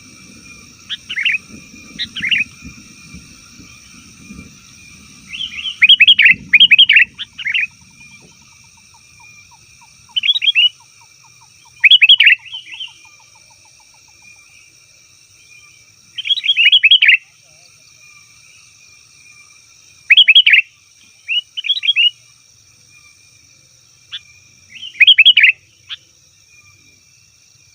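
Sooty-headed bulbul (kutilang) giving noisy chattering calls: bursts of rapid notes about a second long, repeated every three to four seconds, over a steady high-pitched ringing tone.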